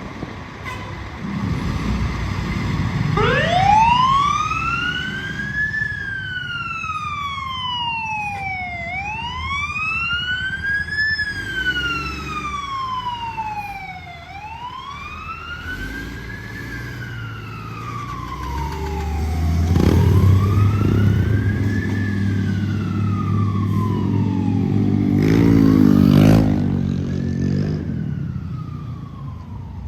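Siren on a 2002 Pierce Dash fire truck winding up and wailing, rising and falling in slow cycles about every five and a half seconds, over the low rumble of the truck's diesel engine. A horn blast sounds briefly near the end.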